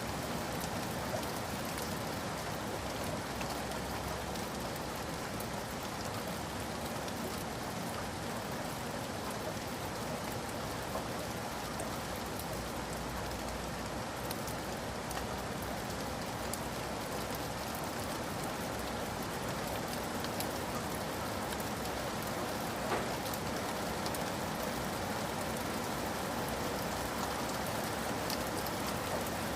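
Steady, even rainfall: a dense patter of raindrops with the odd slightly louder drop.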